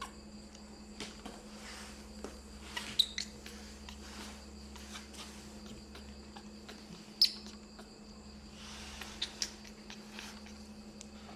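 Scattered small clicks and taps, with a few short high squeaks from a baby monkey around three, seven and nine seconds in, over a steady low hum.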